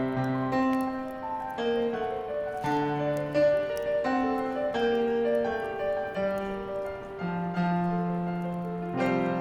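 Slow, gentle piano music: a Christmas song from a piano medley, a melody over held chords.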